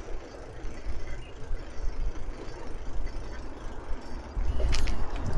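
Wind rumble and road noise from a moving bike ride, getting louder about four and a half seconds in, with a brief rattle near the end.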